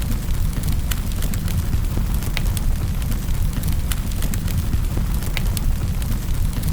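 Wood fire burning in a fireplace: a steady low roar of the flames with frequent sharp crackles and pops scattered throughout.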